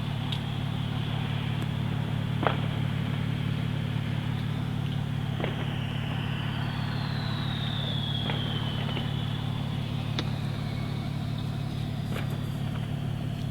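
Steady low drone of an idling car heard from inside the cabin, with a few faint clicks and a faint high whistle that slides down in pitch about halfway through.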